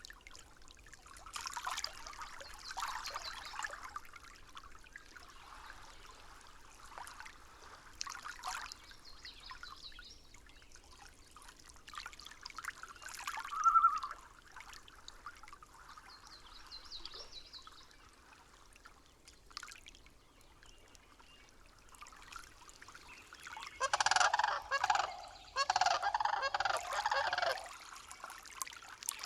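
Nature ambience with scattered faint calls, then a loud run of rapid honking bird calls near the end.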